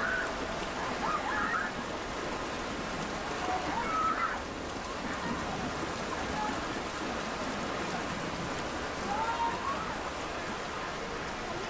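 Steady rain falling, with scattered faint voices calling out in the distance.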